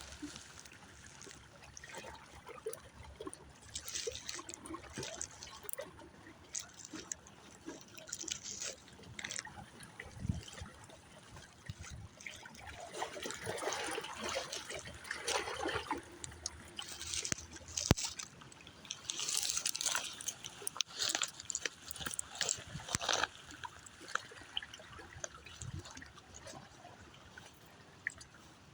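Water where the Indian River meets the ocean splashing and trickling in uneven surges, a little louder in the middle stretch.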